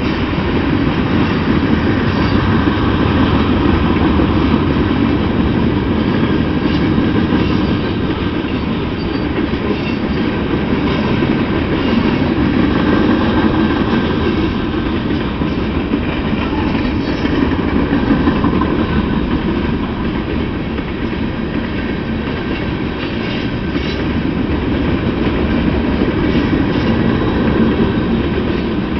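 Freight train of covered hopper cars rolling past: a steady, loud rumble of steel wheels on the rails, with occasional clicks as the wheels cross rail joints.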